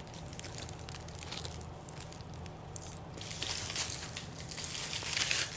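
Close crinkling and rustling of something being handled and moved, with fine crackles, getting louder about halfway through.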